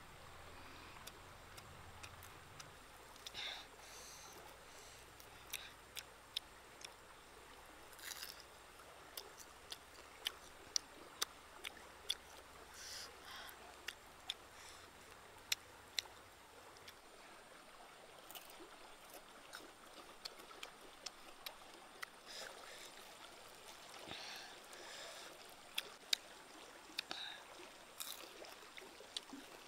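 Fried crickets being chewed: sharp, irregular crunches about one or two a second over a faint steady hiss.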